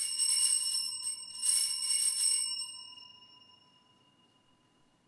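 Altar bells shaken at the elevation of the consecrated host: two rings, the second about a second and a half in, then the ringing dies away over the next couple of seconds.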